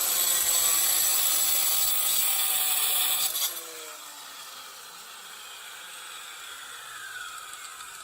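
A power tool running: loud and harsh with a shifting whine for about three and a half seconds, then dropping to a quieter run with a slowly falling pitch.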